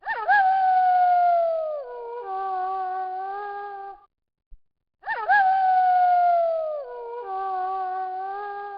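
Wolf howling: a long howl that swoops up and slides slowly down in pitch, breaks, then holds a steadier lower note, lasting about four seconds. After a second of silence the same howl repeats.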